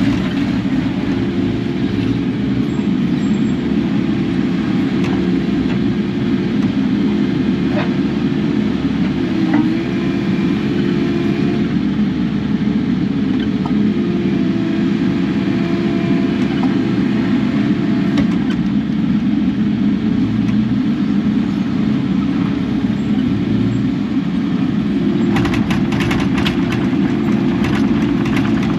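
Kubota KX080 excavator's diesel engine running steadily at working revs, with a run of light clicking and rattling near the end.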